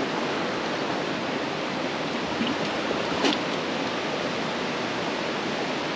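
Steady rush of river white water, with one short knock about three seconds in.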